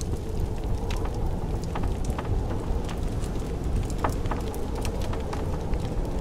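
Blizzard wind as a steady low rush, with a wood fire crackling over it in scattered sharp pops; the loudest pop comes about four seconds in.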